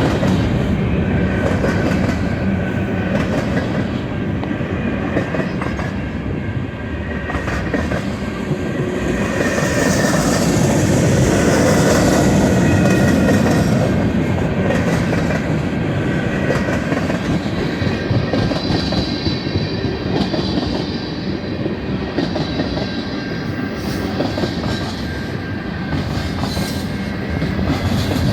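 Freight cars of a passing train rolling by: a continuous rumble with the clickety-clack of wheels over the rail joints, swelling about halfway through. Thin metallic wheel squeal comes in about two-thirds of the way through.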